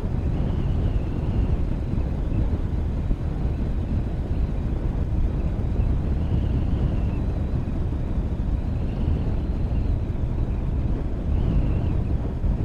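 Motorcycle under way: the engine runs steadily under a low, even rush of wind and road noise.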